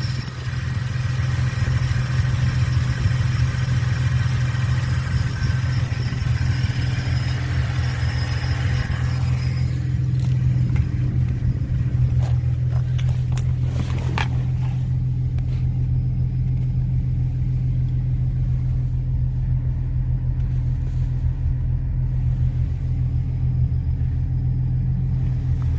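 Camaro engine running steadily with a strong low hum. A higher hiss over it drops away about ten seconds in, and a few sharp clicks come a little later.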